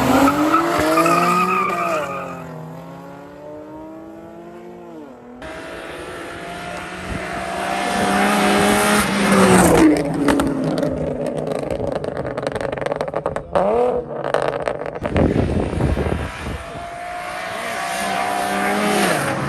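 Race car engines accelerating hard, the pitch climbing and then dropping back at gear changes. The sound breaks off abruptly a couple of times where clips are cut together.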